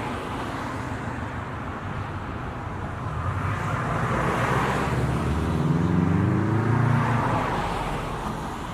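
Road traffic with a car driving past: its sound builds to a peak a little past the middle and then fades, the engine note dropping in pitch as it goes by.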